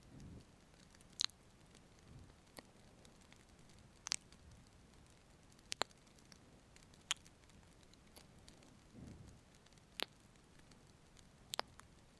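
Close-microphone ASMR kissing sounds: faint, scattered wet lip smacks and sharp clicks, one every second or two, over a low hiss.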